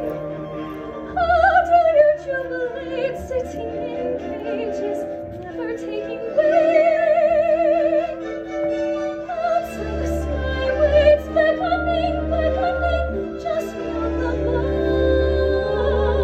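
A soprano singing a musical-theatre ballad in a classical, operatic style, with a wide vibrato on held notes, over an instrumental accompaniment.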